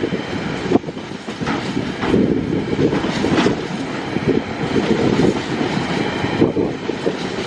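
TasRail freight train rolling past, its wheels clacking over rail joints at irregular intervals over a steady rumble.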